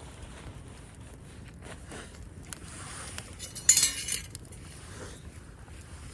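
Campfire wood crackling, with scattered small ticks and a sharp, loud burst of pops about three and a half seconds in.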